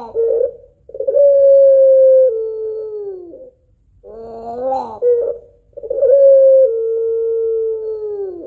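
White puter pelung, a long-voiced breed of Barbary dove, cooing twice. Each call opens with a short wavering syllable, then holds a long coo that steps down to a lower note partway through: the two-note ending (kuwok) that breeders prize.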